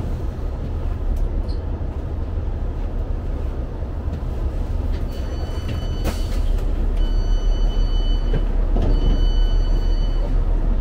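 Cabin sound of a diesel passenger train drawing to a stop at a platform: a steady low engine and running rumble. In the second half a high-pitched tone sounds three times, each a little over a second long.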